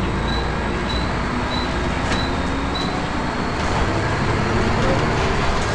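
Volvo B10BLE bus running over a low engine and road rumble, with a thin high-pitched whine that pulses steadily on and off. This is the bus's strange high-pitched noise.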